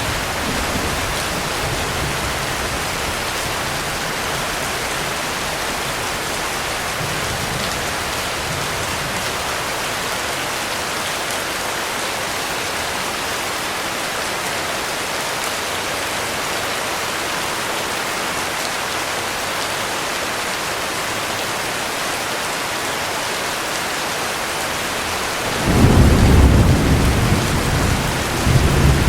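Heavy rain falling steadily, a dense even hiss, with low rolling thunder: a faint rumble early on and a loud peal of thunder starting near the end.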